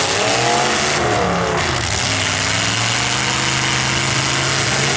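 Demolition derby cars' engines revving, the pitch rising and falling in the first second, then held at a steady, loud speed.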